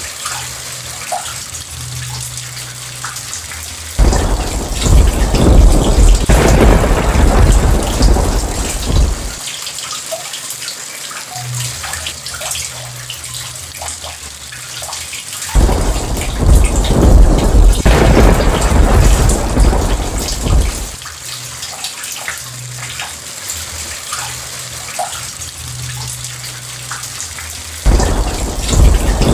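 Steady rain with thunder rumbling in three long, deep rolls, each starting suddenly, about every twelve seconds.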